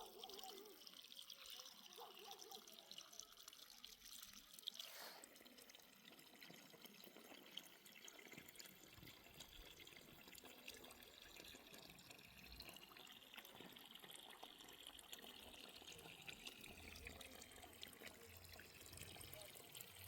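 Faint, steady trickle of irrigation water, with a single sharp click about five seconds in.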